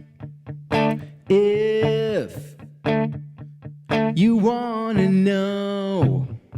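A band playing live: short electric guitar chord stabs about once a second over a steady bass note. Two longer held melody notes bend in pitch between the stabs.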